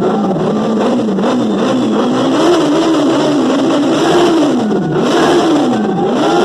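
Motorcycle engine being revved up and down several times, its pitch rising and falling in repeated swells.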